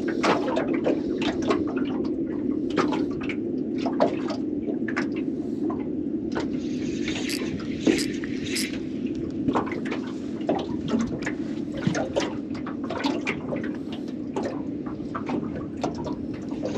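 Water splashing and dripping in irregular small slaps and drips, over a steady low hum.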